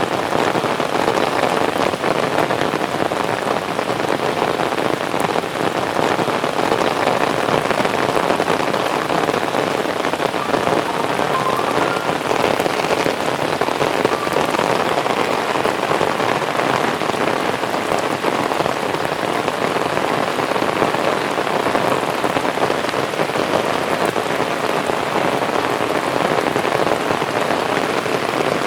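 Heavy rain falling steadily: a loud, dense, even hiss of drops that neither builds nor eases.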